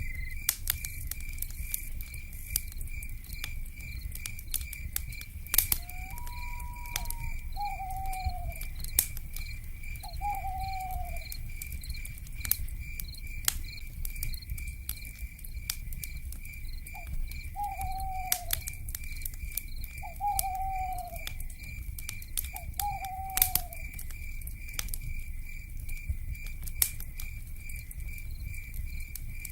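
Wood fire crackling, with sharp pops over a low rumble, while insects chirp in a steady even pulse. Short falling owl calls come in two groups, several in the middle of the stretch and several more later on.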